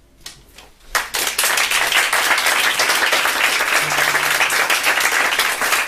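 Audience applause: a few scattered claps, then dense clapping from many hands about a second in.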